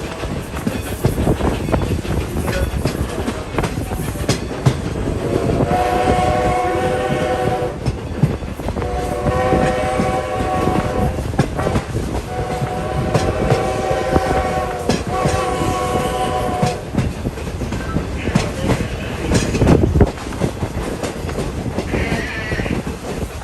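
Strasburg Rail Road No. 90, a 2-10-0 steam locomotive, blowing its whistle in four blasts of about two seconds each, over the steady clickety-clack and rumble of the passenger coach rolling on the rails.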